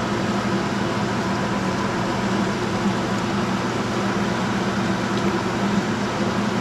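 Steady hiss of steak frying in hot oil in a pan, over a constant mechanical hum.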